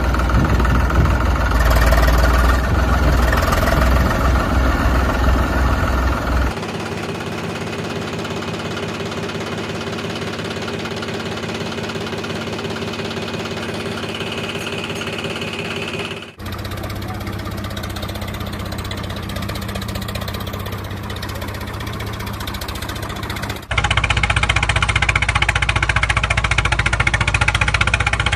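A vehicle engine running steadily, in several spliced clips whose sound changes abruptly about 6, 16 and 24 seconds in.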